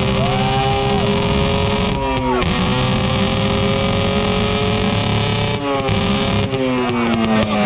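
Motorcycle engine with a loud exhaust running at a steady speed, its pitch dipping briefly about two seconds in and wavering up and down from about five and a half seconds on as the throttle is worked.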